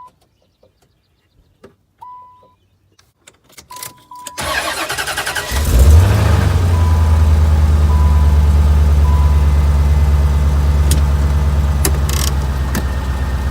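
A 1988 Chevrolet Corvette C4's 5.7-litre V8 is cranked by the starter for about a second and a half, catches with a brief surge about six seconds in, and settles into a steady idle: the car starting now that the VATS anti-theft bypass has the correct resistor. Short electronic chime beeps sound a few times before the cranking and on through the idle.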